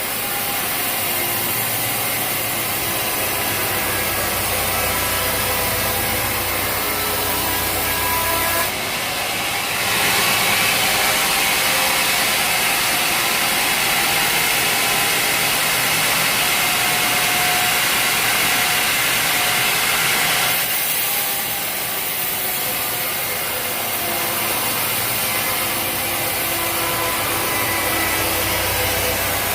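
Sawmill running steadily, its saw blade cutting through a log from about nine seconds in until about twenty-one seconds in, when the sound gets louder and harsher before dropping back to the machine's steady running.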